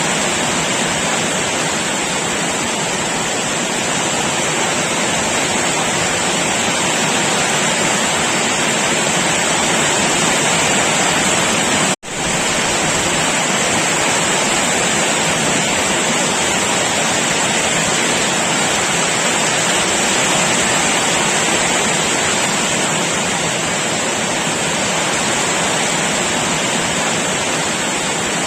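Heavy downpour of rain making a steady, dense hiss. About twelve seconds in it cuts out for an instant and comes straight back.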